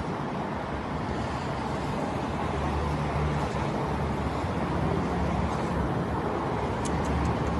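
A low, steady distant roar that grows slightly louder about two and a half seconds in, with a few faint cracks near the end. It is the roaring heard before the Beirut port explosion, which the uploader wonders may be a missile.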